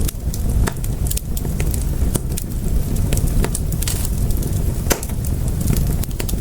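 Wood fire in a fireplace crackling: irregular sharp pops and snaps over a low, steady rumble of burning flames.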